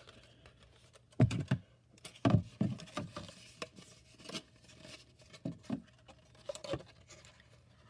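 Cardboard being handled and folded: irregular taps, knocks and rustling of stiff cardboard pieces, loudest just over a second in and again about two seconds in.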